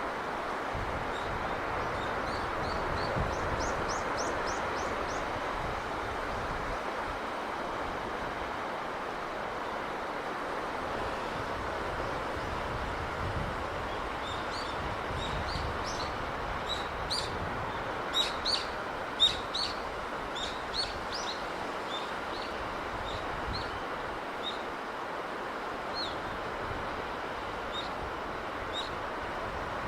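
Steady rushing of sea surf and breeze, with small birds chirping over it: a quick run of high chirps a few seconds in, and a busier spell of chirping in the middle, where the loudest chirps stand out.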